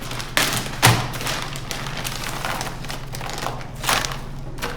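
A few sharp thumps, the loudest about a second in and another near four seconds, over a steady hiss and low hum.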